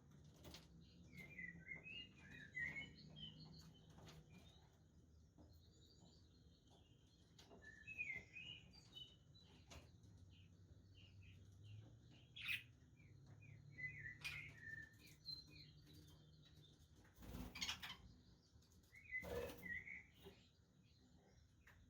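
Budgerigars chirping and warbling in short bursts of twittering, with a few brief rustles or wing flutters between them.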